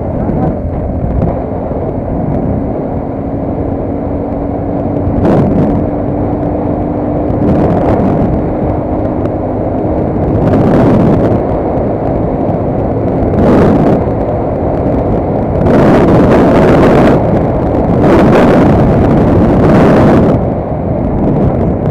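A vehicle on the move, with steady rumbling road and drive noise. A faint steady hum sits under it for the first ten seconds or so. Several louder rushing surges come later, the strongest near the end.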